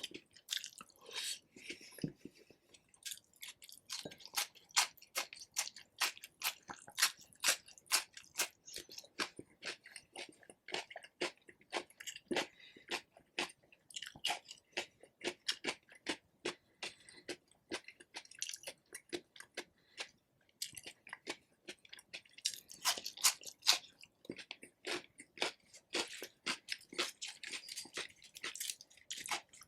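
A person chewing and biting rotisserie chicken close to the microphone: a rapid, uneven run of sharp mouth clicks and crunches.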